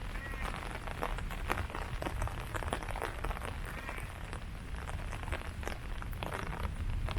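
Rain falling on leaves: a steady hiss with many irregular taps and drips of drops striking foliage. A few faint short calls from an animal come through about three times.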